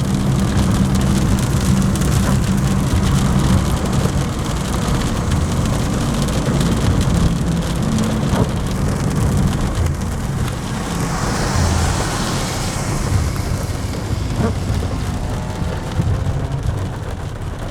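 Heavy rain drumming on a car, over a steady low rumble from the moving car, with a louder hiss for a couple of seconds about eleven seconds in.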